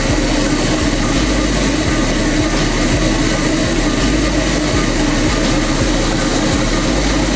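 Refrigerant recovery machine running steadily with a loud, constant mechanical hum, its compressor pulling refrigerant out of an air-conditioning system into a recovery tank.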